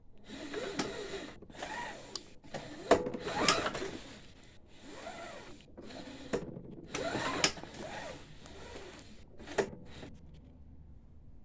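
Lawnmower engine crankshaft being turned over by hand with a wrench on the blade bolt, spark plug out: repeated mechanical strokes of about a second each, with a few sharp clicks.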